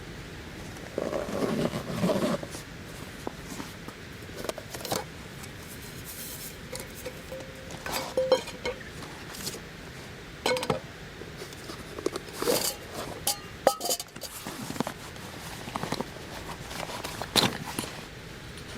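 Camp cooking gear being handled: scattered clinks, knocks and scrapes of utensils and dishes, with a denser scraping stretch about a second in and a short ringing clink around the middle.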